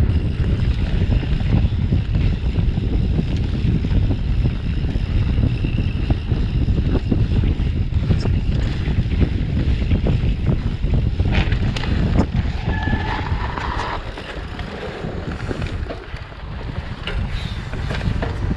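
Wind rumbling loudly on the microphone of a camera riding along on a mountain bike, with scattered clicks and knocks from the bike over the trail.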